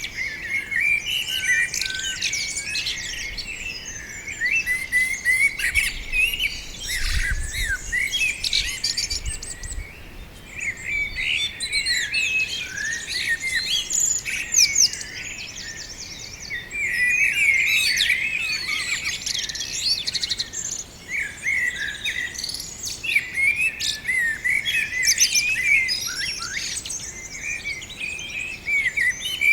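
Songbirds chirping and singing without pause, with many short, overlapping chirps and trills. A faint low rumble comes and goes from about six to ten seconds in.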